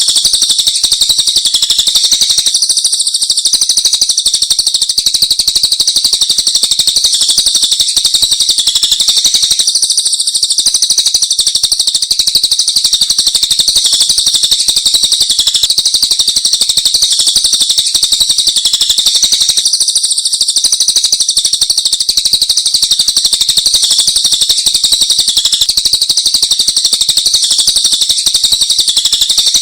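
A recorded mix of songbird song used to train caged birds: a dense, unbroken stream of rapid, high-pitched chirps and trills.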